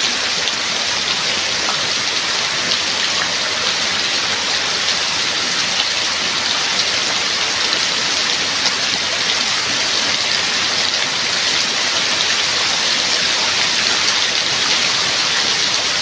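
Steady heavy rain falling, an even hiss of many drops with no pauses.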